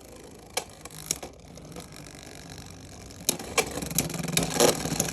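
Hard plastic clicks and clatter of Beyblade X tops and their plastic stadium: a few sharp separate clicks, then a dense run of clattering near the end.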